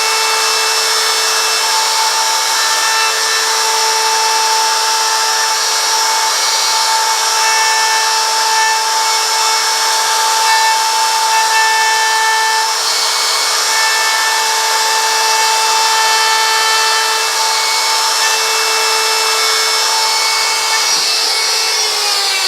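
Router with a V-groove bit running at a steady high-pitched whine while cutting wood, cleaning up the carved outline of a letter in a wooden sign; its pitch starts to fall at the very end as it spins down.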